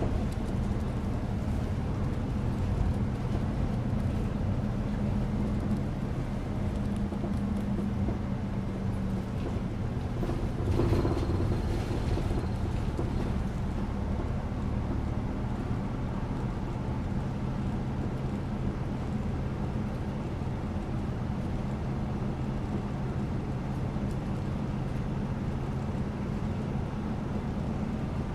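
A local bus riding along, with a steady engine hum and road rumble. A brief louder noise comes about eleven seconds in.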